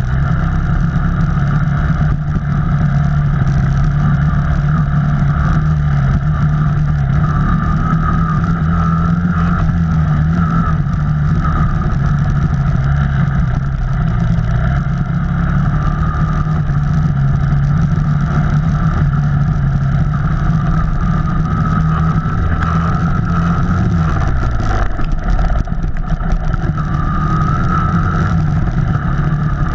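Off-road vehicle's engine running steadily under way, its revs dropping briefly about 23 seconds in and then picking back up.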